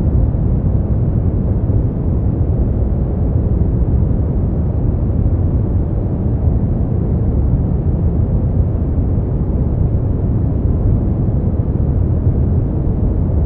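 Steady sleep-aid white noise: an even, deep rushing hiss with most of its weight low down and almost no high treble, unchanging throughout.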